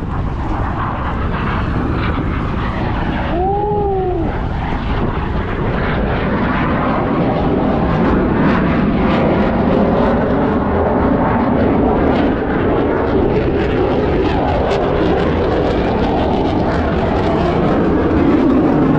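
Airplane engine running as an aircraft flies past, a steady rumble that grows a little louder in the second half. About three and a half seconds in, a brief tone rises and falls.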